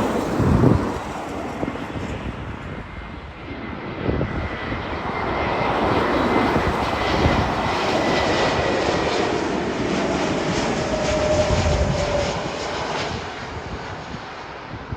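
Airbus A321neo jet airliner landing: the Pratt & Whitney geared-turbofan engines' rush swells, holds loud for several seconds with a thin steady whine, then fades away near the end.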